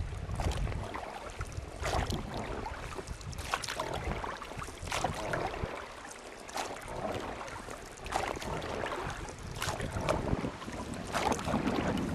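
River water rushing and splashing, with wind buffeting the microphone. The wind rumble is heaviest at the start and again near the end.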